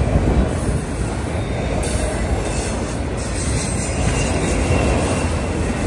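CSX auto rack freight train rolling past, a steady rumble of steel wheels on the rails, with a faint thin squeal coming in about four seconds in.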